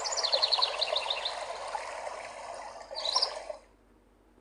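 Flowing river with birds singing: a quick run of about ten chirps in the first second, another short bird phrase about three seconds in. The water sound cuts off suddenly shortly before the end.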